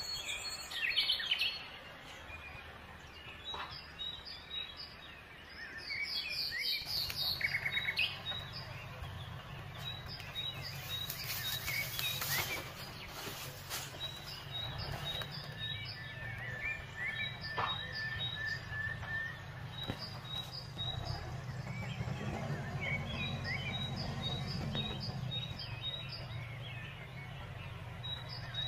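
Birds singing, with many short, high chirps repeated throughout. From about seven seconds in, a tractor engine runs steadily underneath as a low hum, swelling briefly later on.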